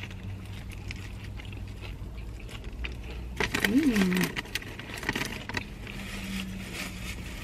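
Two people chewing bites of toasted sandwich, with short crackles near the middle, over a low steady hum. About halfway there is a brief hummed "mm".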